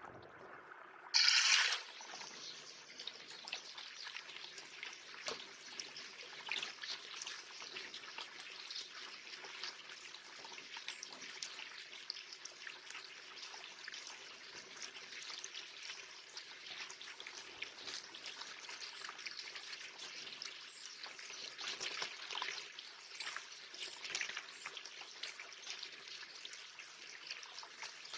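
Water in a garden bird bath splashing and trickling, with a short loud splash about a second in followed by continuous small splashes and drips.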